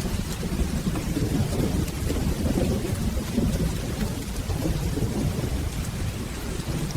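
Steady rain with a continuous low rumble of rolling thunder underneath.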